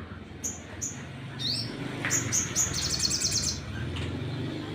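Sogon (a sunbird) singing: sharp high chirps, some sweeping up, then a rapid trill of about fifteen notes a second, about three seconds in.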